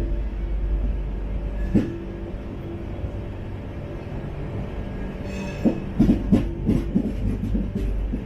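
Steady rumble of an LHB passenger coach running on the rails, with sharp wheel clacks over the track: single knocks at the start and about two seconds in, then a quick run of clacks near the end.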